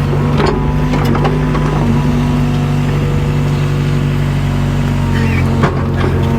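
Mini excavator's diesel engine running at a steady working speed, with a few sharp knocks and scrapes of the steel bucket against concrete foundation block near the start and again near the end.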